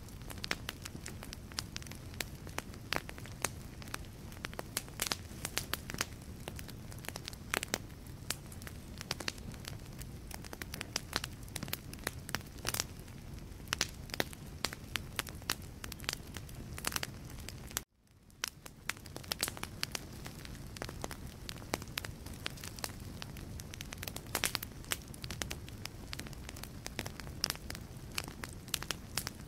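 Wood fire burning in a fireplace, crackling with a dense run of sharp pops and snaps over the low rumble of the flames. About two-thirds of the way through, the sound cuts out for an instant and fades back in.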